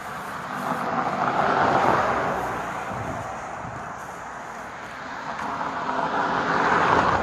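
Two vehicles passing on a road, the tyre and engine noise swelling and fading, first peaking about two seconds in and again near the end.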